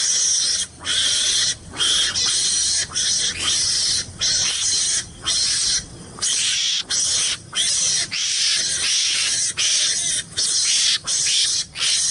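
A trapped mongoose making harsh hissing calls in rapid repeated bursts, each under about a second long, broken by brief pauses.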